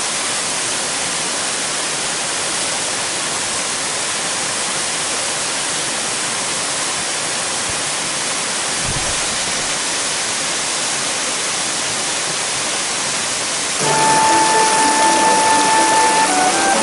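Rushing water of a mountain stream, a steady even rush. Music with a held tone comes in near the end.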